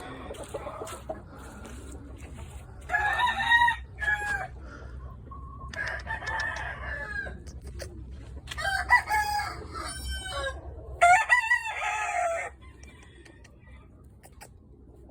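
Game roosters crowing: four separate crows, about three, six, nine and eleven seconds in, over a low steady rumble.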